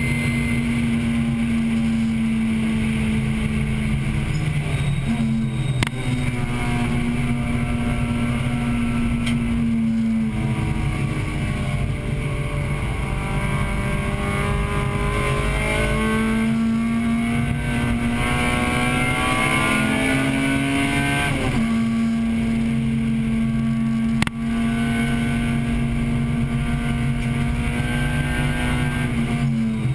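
A 1998 Acura Integra Type-R's 1.8-litre VTEC four-cylinder racing at high revs, heard from inside the cabin. The revs fall away about ten seconds in, climb steadily for about ten seconds, drop sharply just after twenty seconds as it shifts, then hold high again. There are sharp knocks twice.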